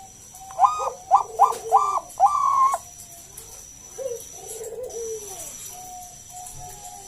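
Bangkok-type zebra dove (perkutut) cooing: a loud phrase of about five short rolling notes, then softer, lower trilled coos a couple of seconds later.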